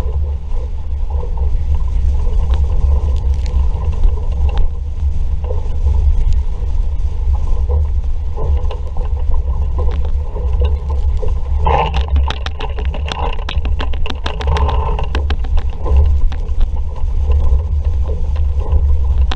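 Wind buffeting the microphone and water rushing past a sailing dinghy's hull under way in a strong breeze. About twelve seconds in comes a spell of rapid rattling and clattering lasting a few seconds.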